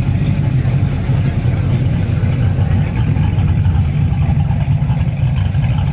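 A car engine giving a deep, steady, loud rumble as the car rolls slowly past.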